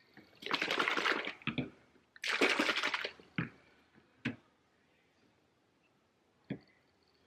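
Liquid poured in two spells of about a second each, then a few light knocks and clicks.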